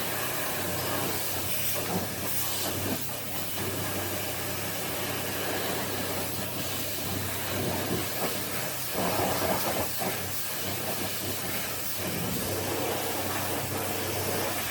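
High-pressure car washer running and spraying a water jet: a steady loud hiss over a low motor hum.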